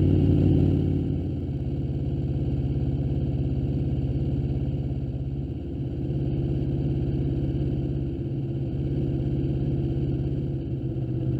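Aprilia Tuono V4 Factory's V4 engine idling steadily just after being started, a touch higher for the first second before it settles.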